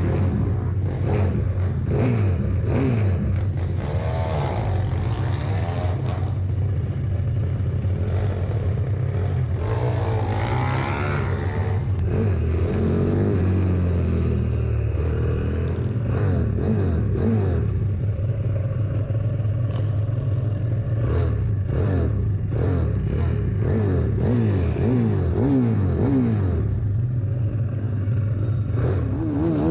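125cc pit bike engine racing on board, revving up through the gears and dropping back repeatedly, with the pitch rising and falling over and over.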